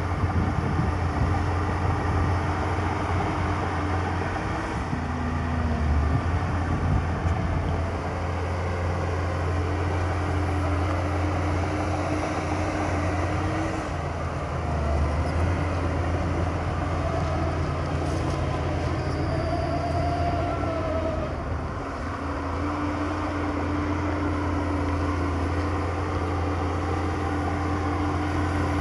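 Heavy diesel earthmoving machinery running: a steady low engine drone with a higher steady whine that drops out briefly and comes back a few times.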